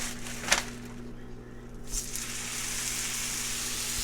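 Food frying in a pan on the stove, its sizzle swelling up about two seconds in and then holding steady. A short knock comes about half a second in, and a steady low hum runs underneath.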